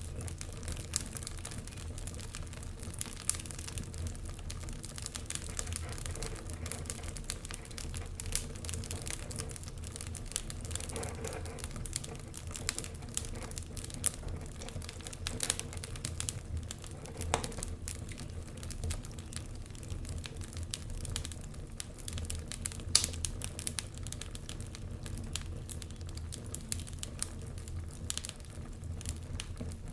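Wood fire crackling in a fireplace: irregular sharp pops and snaps over a steady low rumble of the flames, with a louder pop near the end.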